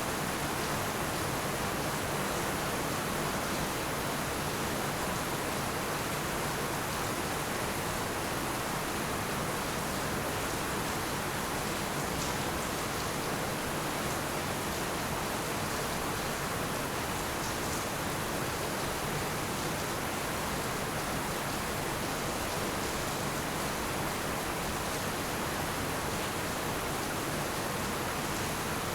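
Heavy rain falling steadily, a dense even hiss with no thunder or other sounds.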